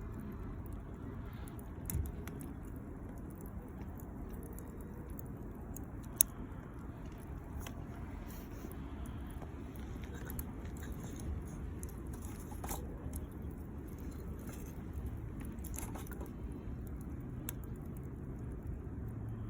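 Wood campfire crackling, with scattered sharp pops and one louder pop about six seconds in, over a low steady rumble.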